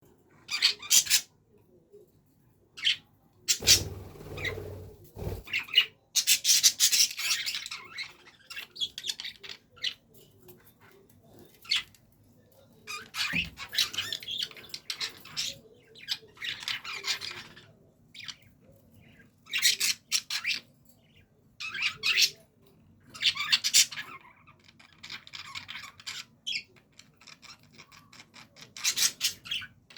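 A group of budgerigars chattering and squawking in irregular bursts with short pauses between them. A brief low rumble sounds about four seconds in.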